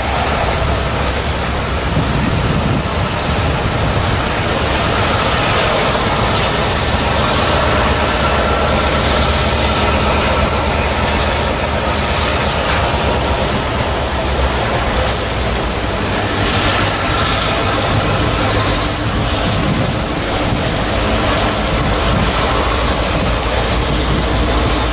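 Freight train rolling past, a steady rumble and hiss of cars on the rails. A Norfolk Southern diesel locomotive's engine hum grows stronger in the second half as the locomotive draws near.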